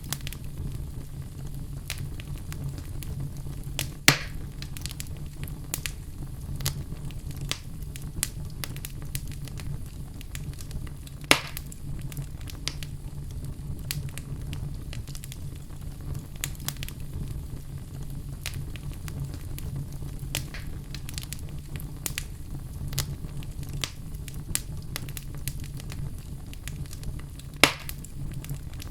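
Fire burning in a fireplace, crackling steadily over a low rumble, with many small crackles and three louder pops: about four seconds in, around eleven seconds, and near the end.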